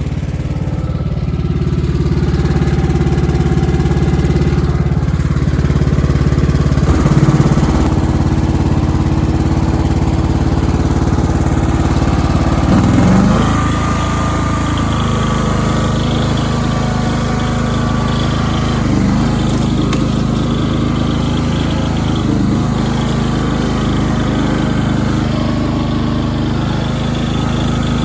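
Small gasoline engine running steadily, lawn-mower-like. Its pitch drops and shifts about 7 and 13 seconds in, each time with a brief louder clatter.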